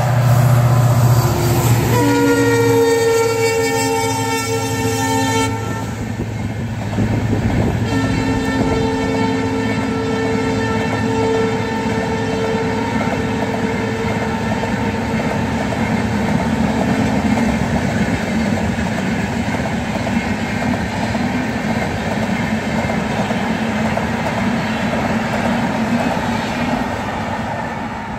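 Diesel locomotive passing close with its engine running, sounding a chord-like horn for about three and a half seconds a couple of seconds in. Then the long rake of passenger coaches rolls by with steady wheel noise, clickety-clack and a steady tone underneath, easing off slightly near the end.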